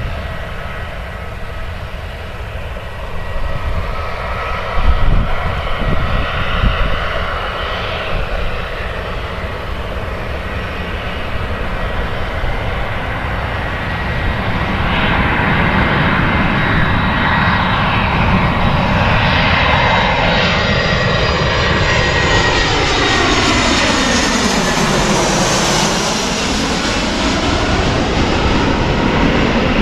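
Airbus A320 jet airliner on final approach, flying over with its engine noise building to a steady loud roar about halfway through. A sweeping whine dips in pitch and rises again as it passes overhead. There are a few low buffets about five seconds in.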